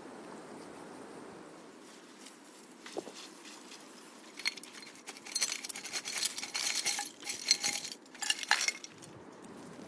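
Dishes and utensils clinking and clattering for about four seconds from about halfway through, with some ringing notes, after a single knock about three seconds in.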